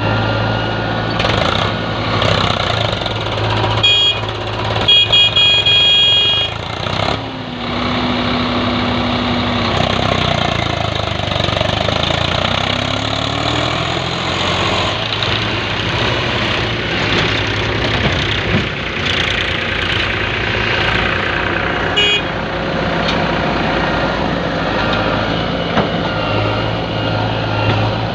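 Diesel engines of a JCB 3DX backhoe loader and a tractor running, the engine note shifting as the machine works a loading cycle. Brief high-pitched beeps come about four to six seconds in and again near the end.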